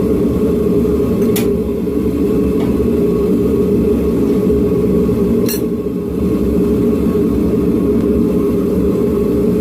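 Forge running with a steady loud rush, with two sharp metallic clinks, one early and one about halfway through.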